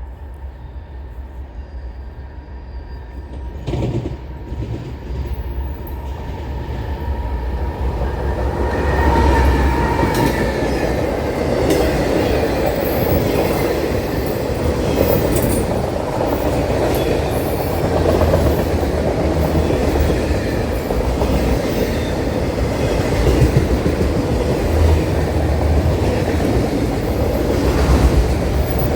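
Train rolling past close by, its rumble building over the first ten seconds and then holding steady, with wheels clicking over rail joints.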